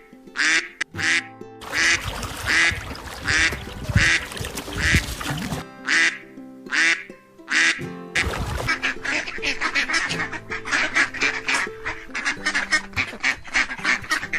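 Ducks quacking: single quacks about half a second apart, then from about eight seconds in a rapid run of many quacks, over background music. A rushing noise sits under the quacks for a few seconds in the first half.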